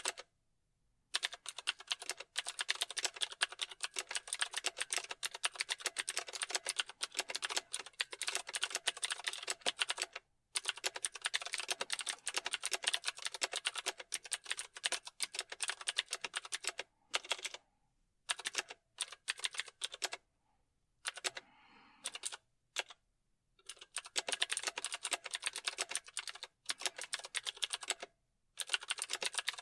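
Typing on a keyboard: fast, dense runs of key clicks broken by short pauses, with the runs becoming shorter and more stop-start in the second half.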